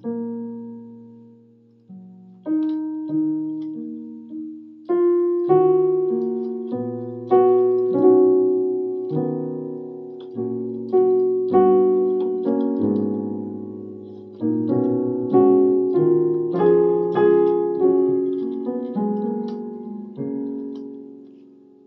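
Electronic keyboard on a piano sound playing a slow Korean drama soundtrack melody over chords, each note struck and left to fade. The playing thins out and dies away near the end.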